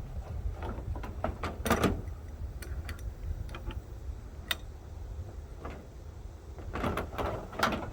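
Scattered clicks and knocks of metal pipe fittings and tools being handled, the loudest about two seconds in and again near the end, over a steady low rumble.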